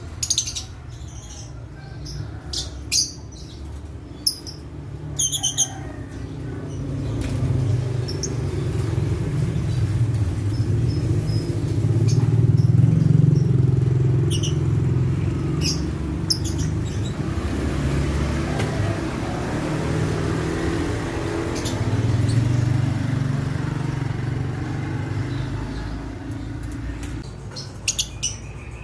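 Lovebirds giving short, sharp chirps in the first few seconds and again near the end, over a low vehicle rumble that swells from about six seconds in and fades away near the end.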